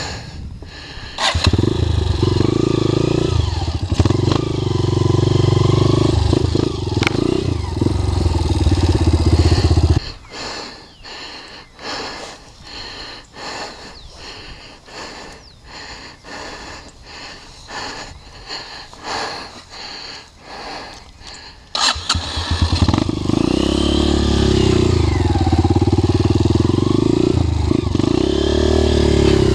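Trail motorcycle engine running and revving, cutting out about ten seconds in. A quieter stretch of short, evenly spaced knocks follows. The engine starts again about twenty-two seconds in and runs with rising and falling revs.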